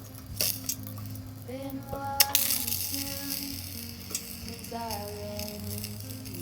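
Food sizzling and frying in a pan, with a few sharp clicks of a utensil against it.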